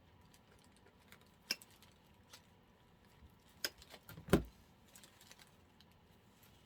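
Scattered light clicks and taps of craft materials, such as artificial flower stems, being handled on a desk, with one louder knock a little past four seconds in.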